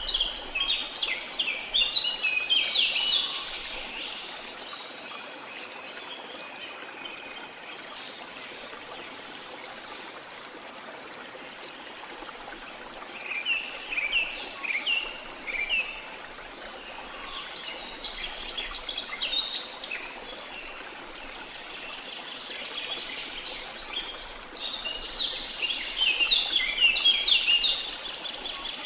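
Songbirds chirping in quick bouts over the steady rush of a waterfall. The birdsong comes in bursts at the start, twice in the middle and for a longer spell near the end, with the water running evenly underneath.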